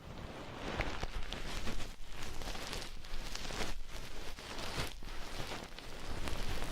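Ear-cleaning tools scratching and rustling against an ear-shaped binaural microphone, a dense crackle that swells and eases unevenly, with a few sharper clicks.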